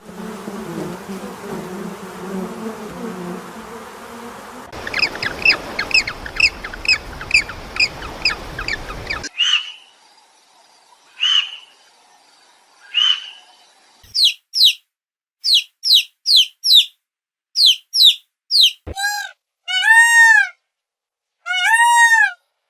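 A run of short edited clips of animal calls, mostly bird chirps: a noisy stretch first, then rapid repeated chirps, three separate calls, quick falling chirps, and near the end arched calls in pairs, each clip cutting off suddenly into the next.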